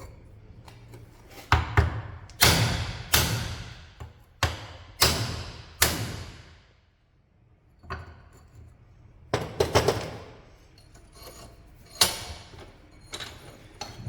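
Hammer blows on a steel tube tool, driving an old bushing out of a Dodge Dakota suspension control arm. There are about a dozen sharp metallic strikes, each ringing briefly, with a pause of a second or so midway.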